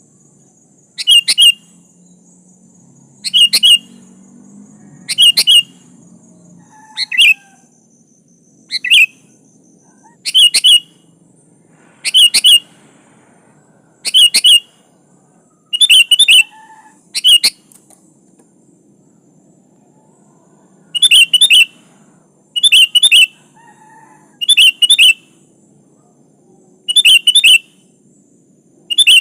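Sooty-headed bulbul (kutilang) giving short, loud, sharp calls about every one and a half to two seconds, some doubled, with a pause of a few seconds past the middle.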